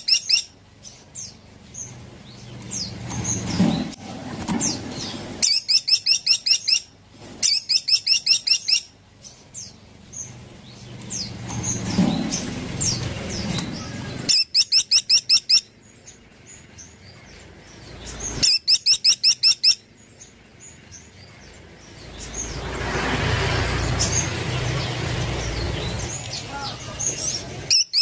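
A caladi pygmy woodpecker giving rapid rattling trills, four of them, each about a second long, with single sharp call notes in between. A stretch of rushing noise comes in near the end.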